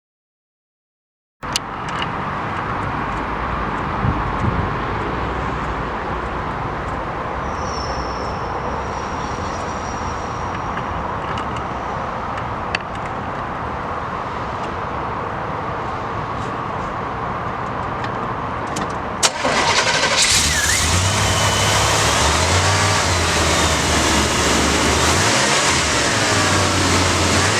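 Engine of a 1990 Chevrolet C/K pickup running steadily. About two-thirds of the way through it gets louder and is revved, its pitch rising and falling.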